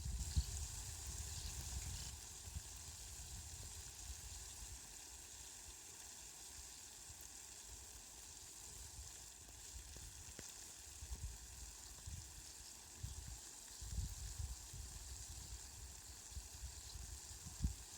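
Steady rain, an even hiss with a few faint drip clicks, and a low rumble that comes and goes near the start and again past the middle.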